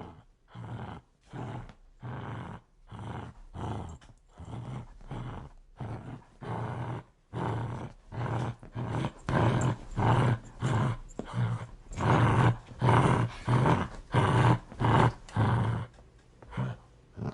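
A dog growling aggressively in a rapid series of short, rasping pulses, about two a second, one with each breath in and out. The growls grow louder about halfway through.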